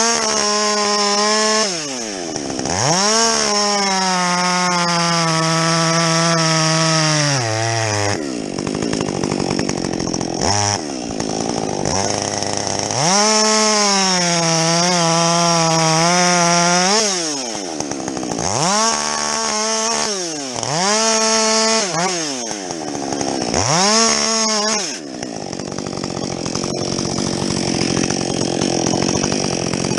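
Husqvarna 562XP two-stroke chainsaw with a modified muffler, revved to full throttle for two long cuts through logs, its pitch sagging slightly under load before the throttle is released. Several short throttle blips follow, then the saw idles near the end.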